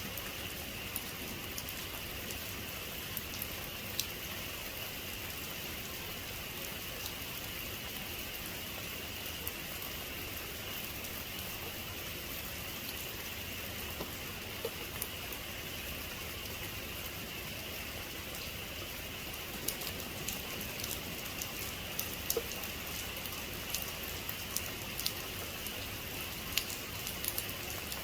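Heavy rain falling steadily, an even hiss with individual drops ticking sharply on a surface, the ticks more frequent from about twenty seconds in.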